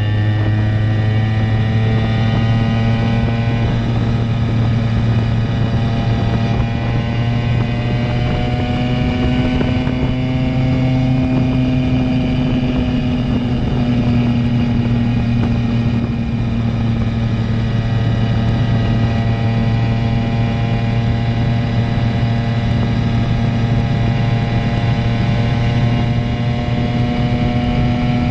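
Simson moped's two-stroke single-cylinder engine running through a JW 85G+ aftermarket exhaust at a steady cruising speed, its pitch rising slightly about ten seconds in and easing back.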